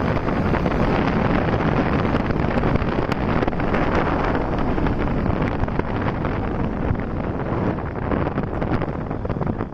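Wind buffeting the microphone of a camera on a moving motorcycle, with the bike's engine and road noise underneath. A steady rush that eases slightly near the end.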